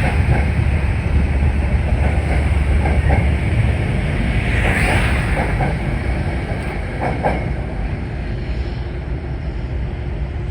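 Metro-North commuter train pulling out of the station: a steady rumble of wheels on rail with a few faint clicks and a couple of soft hisses.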